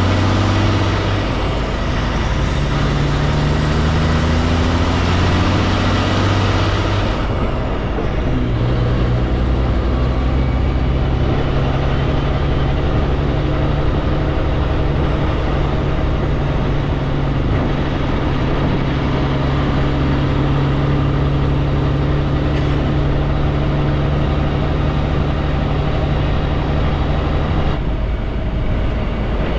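Kenworth K200 road train's Cummins diesel engine pulling, heard from the cab. The engine note climbs, drops about seven seconds in at a gear change, holds steady, then eases off near the end.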